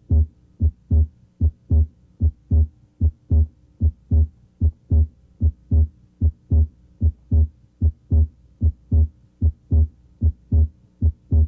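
Human heart sounds at the left third interspace: a steady lub-dub of paired beats, S1 then S2, roughly 70 a minute. During deeper breathing both components of S2, the aortic A2 and the pulmonic P2, may be heard as a split second sound.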